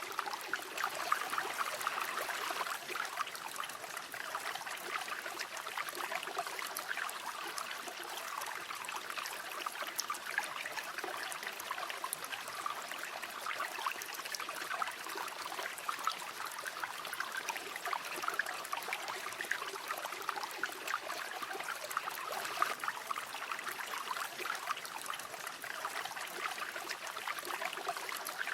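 Continuous flowing river water, an even babbling and trickling rush with no breaks.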